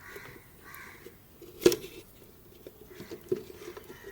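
A sharp knock about a second and a half in, then a few lighter clicks and taps: the oil filter cartridge being pulled out of its housing and set down in a container. A crow caws twice in the background near the start.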